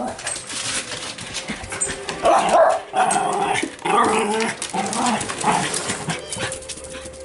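A dog making a string of short vocal calls, one after another, thickest from about two seconds in until near the end, with scattered clicks and scuffs in between.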